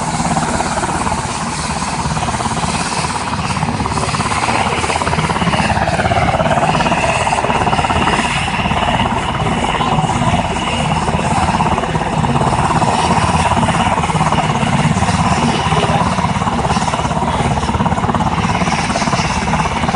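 Helicopter running steadily, its rotor pulsing low under a high engine whine that dips briefly in pitch about six seconds in and then holds steady.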